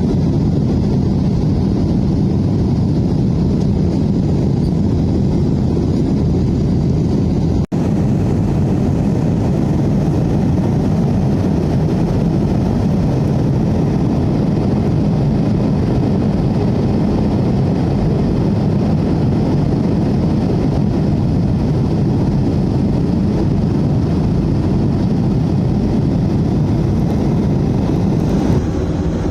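Steady roar of a jet airliner's engines and airflow heard from inside the passenger cabin in flight, deep and even, broken once by a brief cut about a third of the way in.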